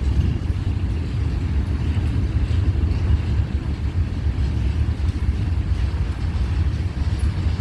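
Slow freight train rolling past, a steady low rumble.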